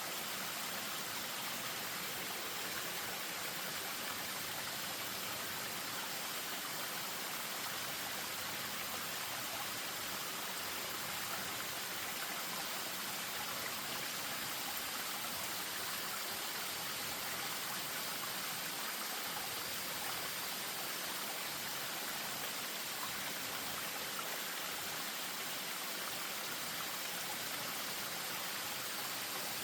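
Spring-fed stream running over a small waterfall: a steady rush of flowing water that does not change.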